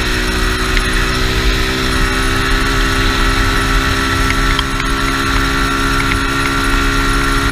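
Chinese 200cc single-cylinder dirt bike engine running at steady high revs in one gear, its pitch holding level, with heavy wind rumble on the microphone.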